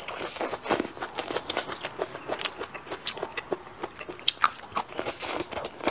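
A person biting and chewing crisp bamboo shoots close to the microphone: irregular crunching clicks, several a second.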